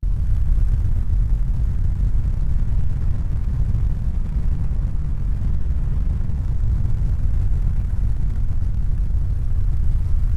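Steady low rumbling noise, even throughout, starting abruptly.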